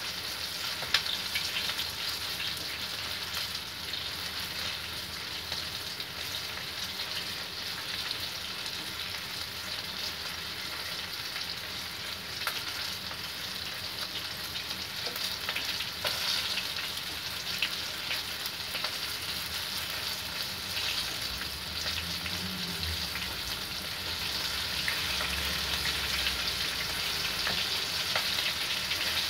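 Breaded pieces shallow-frying in hot oil in a pan: a steady sizzle with scattered crackles and pops, getting a little louder near the end.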